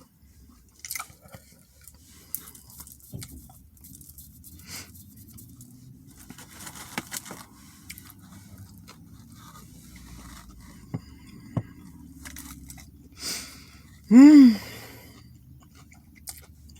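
Chewing and wet mouth noises from eating a Philly cheesesteak, with scattered small clicks and crunches. Near the end comes one short, loud hummed voice sound that rises and falls in pitch.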